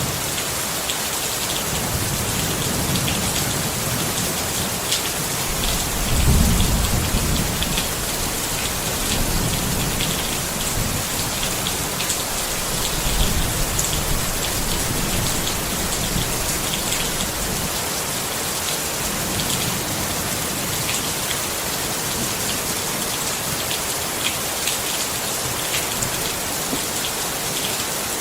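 Steady rain falling on a tent, a dense even hiss with many small drop taps. Two low rumbles swell up about six and thirteen seconds in.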